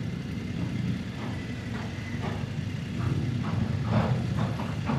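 Motorcycle engine running as the bike pulls off, a steady low rumble. Some short irregular sounds on top come in from about two seconds in.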